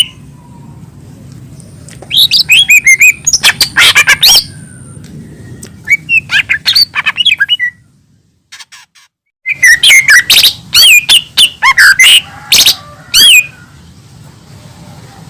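Cucak ijo mini (a leafbird) singing in loud bursts of rapid chirps and whistled, warbling notes, with pauses between phrases and a brief near-silent break about eight seconds in.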